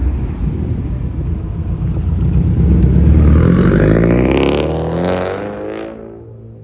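A car engine accelerating hard, its pitch climbing, then fading away as the car drives off.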